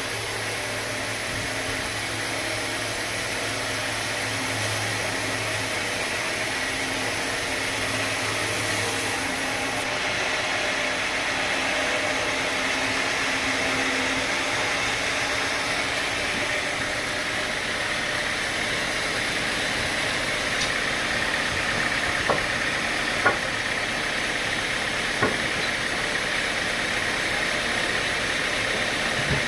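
Sawmill machinery running steadily, with three short sharp knocks about three-quarters of the way through.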